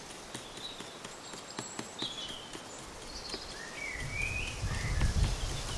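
Small birds chirping, a handful of short calls that slide up and down in pitch, over a few light taps and ticks. About four seconds in, a low, irregular rumble rises and becomes the loudest sound.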